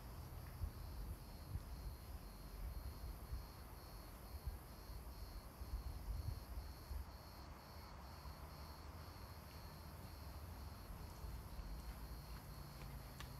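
Crickets chirping in a steady, even rhythm of about three chirps a second, over a low rumble.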